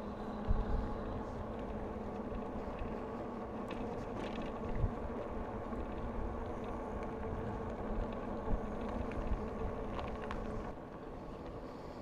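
Steady rumble of a bicycle ride: wind on the microphone and tyre noise, with a few short low thumps scattered through. The rumble eases a little near the end.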